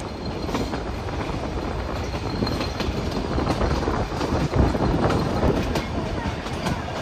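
Metre-gauge passenger train running on the track, heard from an open coach: a steady rumble and rattle of wheels on rail, with frequent light clicks.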